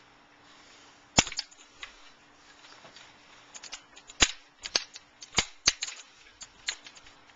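Pieces of a display booth frame being snapped onto their notches: a series of sharp clicks, the loudest about a second in and about four seconds in, coming more closely together in the second half. Each click is the sign of a piece seated and locked in place.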